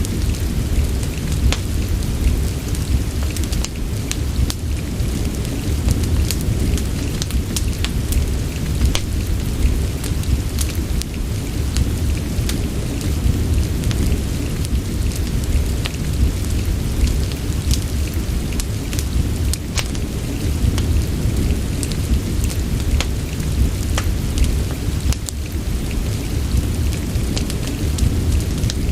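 Steady rain mixed with a fireplace: an even hiss of rain over a strong, constant low rumble, with many small sharp clicks and crackles scattered throughout.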